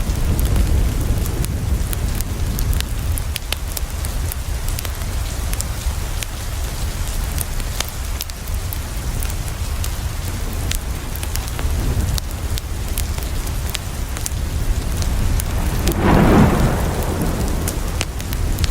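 Steady rain falling against a window over a deep low rumble, with scattered sharp crackles from a wood fire. About sixteen seconds in, a brief louder swell of noise rises and fades.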